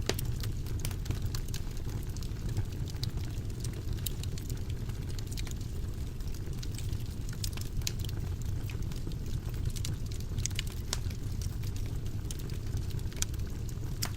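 Fire burning in a fireplace: a steady low rumble of flames under frequent, irregular sharp crackles and pops.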